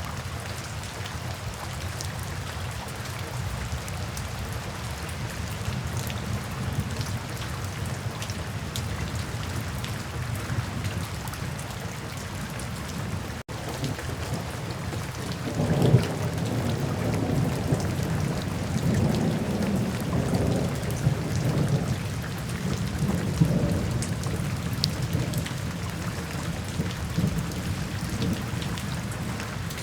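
Steady rain falling, with a low rumble of thunder that swells suddenly about halfway through and rolls on for about ten seconds before fading back under the rain.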